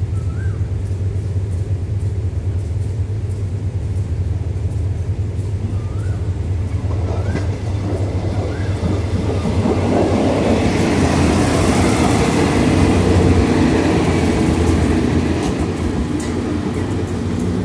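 Diesel railcar express train approaching and passing on the adjacent track. Its engine and wheel noise builds from about halfway through, peaks as it runs alongside, then eases off, with wheel clicks over the rail joints near the end. A steady low hum from the standing train runs underneath.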